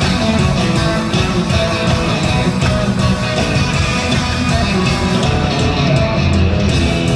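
Live rock band playing loudly, with electric guitar prominent over bass and drums.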